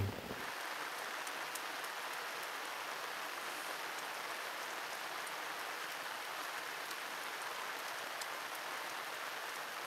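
Heavy rain falling steadily: an even hiss with scattered sharp ticks of single drops.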